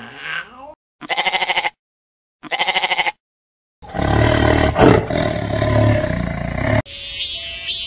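A series of edited animal calls: two short, rapidly rattling calls with silence between them, then a loud, low call lasting about three seconds, cut off abruptly by a different call near the end.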